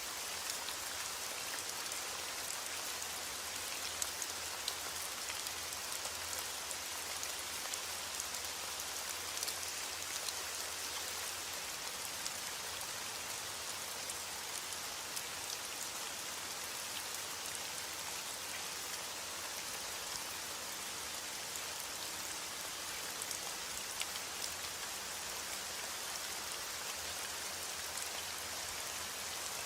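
Steady rain falling, an even hiss dotted with sharper ticks of single drops, with no thunder.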